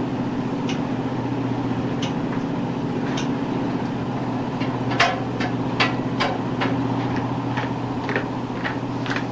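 Steady low drone of a patrol boat's engines and machinery. From about halfway in, a run of short, irregular knocks and taps, like footsteps and fittings on the boat.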